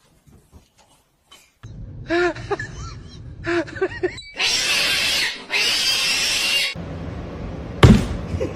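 A cat making several short arched meows, then hissing twice in long, loud hisses. A single loud thump comes near the end.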